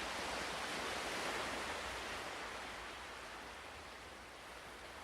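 Ocean surf: a wave washing in, its hiss slowly fading away.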